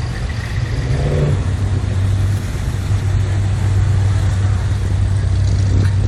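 Car engine running with a low, steady hum; its pitch shifts briefly about a second in, then settles.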